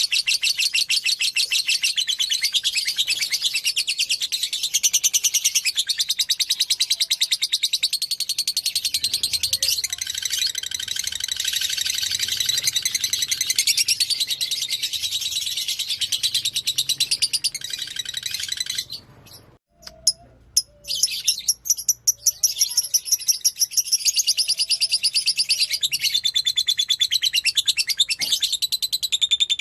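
Lovebird of the fighter type singing a long, rapid, shrill chattering song, a continuous stream of fast repeated high notes. It breaks off for about two seconds about two-thirds of the way through, then starts again.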